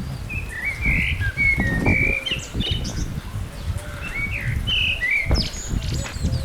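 Small birds chirping, a run of short quick calls lasting about five seconds, over a steady low rumble.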